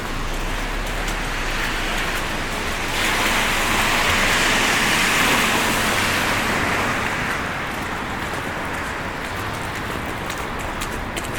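A vehicle passing on a slushy street: a steady tyre hiss that swells for a few seconds, starting about three seconds in, and then fades away.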